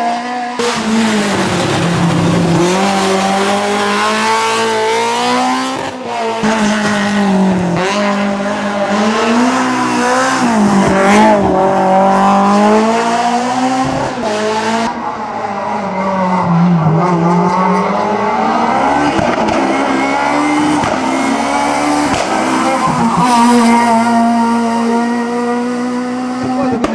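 Racing car engines at high revs, the pitch repeatedly climbing and dropping with gear changes and lifts off the throttle, with tyre squeal over them. The sound changes abruptly twice, where the footage jumps to another car or another corner.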